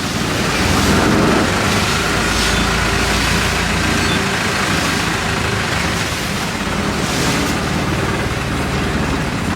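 Long-tail boat engine running steadily under way, under a dense rushing hiss.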